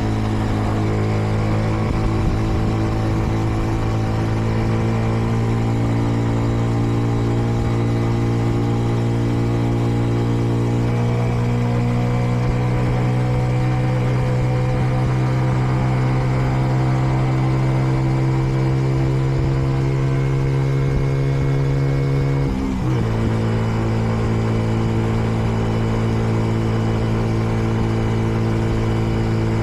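Kreidler Dice CR 125 motorcycle's 125 cc single-cylinder engine running under way, its note climbing slowly and steadily. About three-quarters of the way through, the engine note dips sharply for a moment and settles slightly lower, then runs steadily again.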